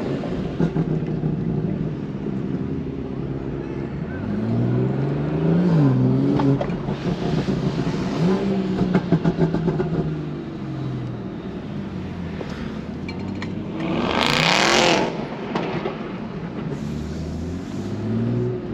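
Car engines revving and accelerating, the pitch climbing and falling several times, with one louder surge of hard acceleration about fourteen seconds in.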